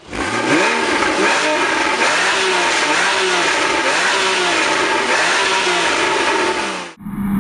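The flat-six engine of a 2013 Porsche Boxster S, revving with its pitch rising and falling in repeated swells, a little under one a second. Just before the end the sound breaks off and a steadier engine note follows.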